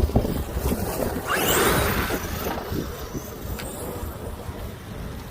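Arrma Outcast 8S RC monster truck's electric motor and tyres rising to a loud rushing whine about a second and a half in, then fading. Heavy wind buffets the microphone throughout as a low rumble.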